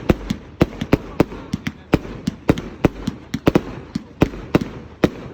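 Fireworks going off: a fast, irregular string of sharp bangs and pops, about three a second, with crackling between them.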